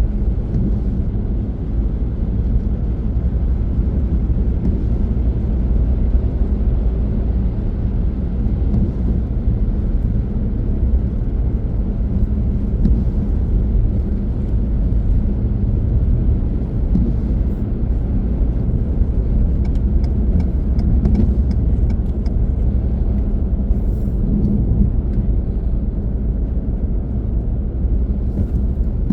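A car driving steadily, its tyre and engine noise a continuous low rumble.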